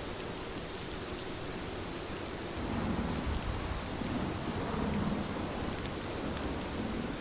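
Steady heavy rain, with a low rumble of thunder rising about three seconds in and fading a few seconds later.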